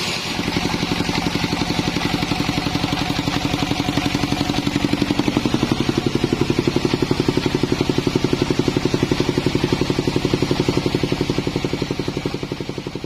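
Engine of a band sawmill running with a steady, rapid pulse after the higher hiss of cutting stops, fading out near the end.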